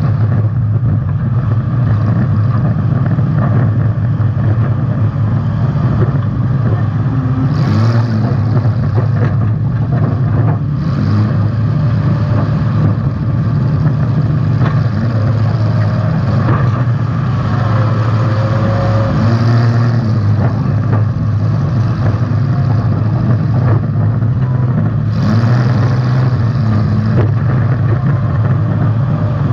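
Demolition derby car's engine running hard and revving, heard loud from on board, with a few sudden noisy bursts.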